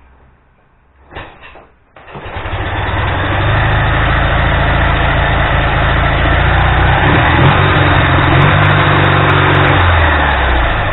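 Ural motorcycle's flat-twin engine: after a short clatter, it catches about two seconds in and runs loud and steady, its pitch shifting a little in the middle, then eases off at the end.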